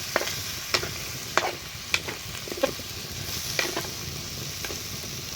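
Food sizzling as it fries in a pan, with a utensil knocking and scraping against the pan in sharp clicks, roughly once or twice a second, as the food is stirred.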